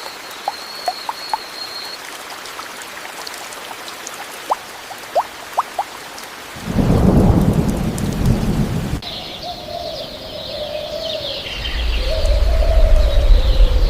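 Steady rain with scattered drops ticking, then a loud low rumble of thunder about seven seconds in. After an abrupt change at about nine seconds, wavering tones and another deep rumble near the end.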